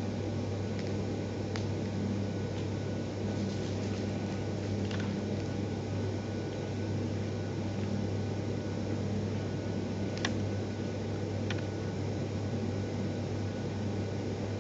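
Steady low hum of a fan or appliance, with a few faint clicks about one and a half, five, ten and eleven and a half seconds in.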